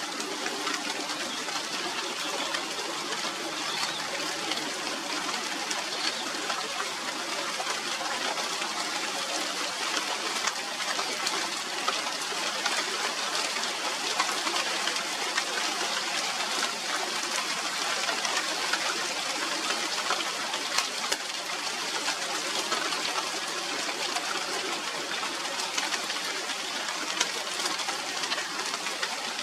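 Steady rain falling on the leaves of a China doll tree, an even hiss of many small drops that holds at one level throughout.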